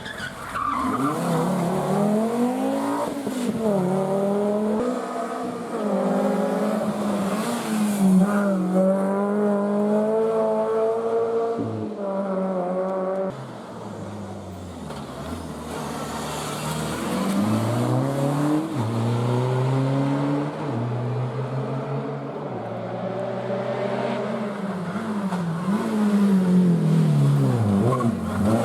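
Rally car engines revving hard as they pass on a gravel-and-forest special stage, their pitch climbing and dropping again and again with the gear changes. The sound cuts down suddenly about halfway through, then another rising run of revs builds up.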